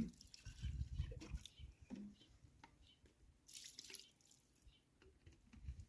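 Water dripping and splashing, with a sharp knock at the start and scattered small knocks and clicks.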